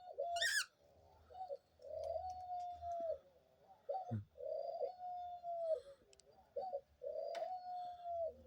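Dove cooing: three long, level coos of about a second each, each led by a short note, with faint high chirps behind.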